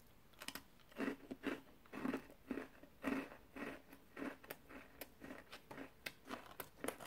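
Close-miked chewing of a crunchy peanut crunch cookie: crisp crunches about twice a second, starting about half a second in.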